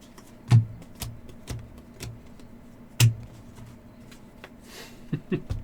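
Sharp taps and knocks on a tabletop as trading cards are handled and set down: four about half a second apart, a louder one about three seconds in, and a few quicker, softer ones near the end.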